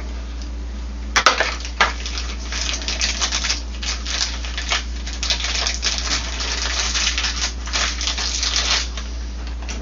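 Rustling, crinkling and light clattering of parts being handled as the new washer drum bearings are readied, with two sharp knocks a little over a second in, over a steady low electrical hum.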